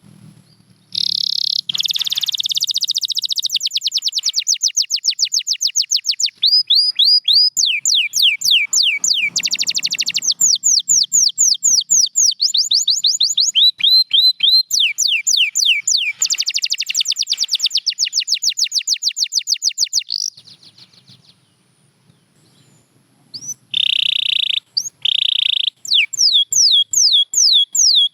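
Domestic canary singing a long song of rapid trills: each trill is a fast series of downward-sweeping notes repeated many times a second, and the bird switches from one trill to the next every second or two. The song pauses for about three seconds near the end, then resumes with a few held notes and more trills.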